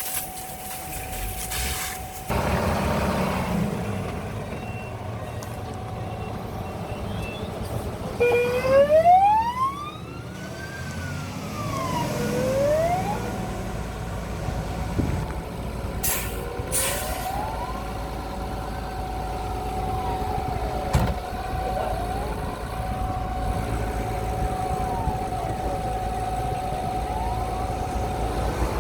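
Fire engine siren wailing, its pitch sliding up and down. It starts loud about eight seconds in and carries on fainter, over the steady running of a truck engine and a constant whine.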